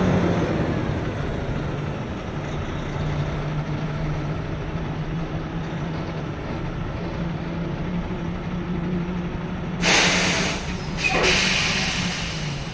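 Semi-truck engine running steadily while driving, its pitch settling a little lower in the first couple of seconds. Near the end come two short bursts of hiss, typical of the truck's air system.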